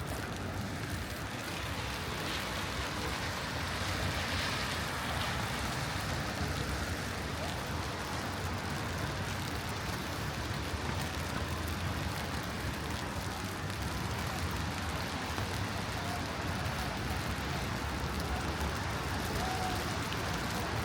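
Steady city street ambience in light rain: rain falling with a low, even rumble of traffic.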